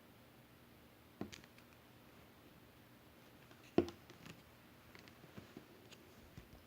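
Clear, colourless slime being handled: a few scattered short sticky clicks and squelches, the loudest about four seconds in.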